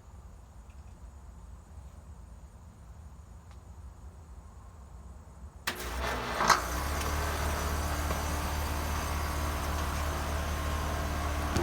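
A 2-ton GrandAire heat pump starting up in cooling mode. There is a faint low hum at first; about six seconds in, the unit with its Copeland scroll compressor kicks on suddenly, a brief knock follows, and then it runs with a steady hum and a rush of air.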